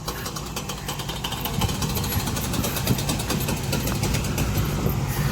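A car's engine running at low speed, growing steadily louder as the car pulls up.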